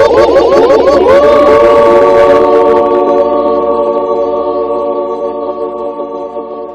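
An electronic, organ-like DJ sound effect: a stack of tones warbling rapidly up and down, about five swoops a second, then settling about a second in into a held chord that slowly fades out over a low hum.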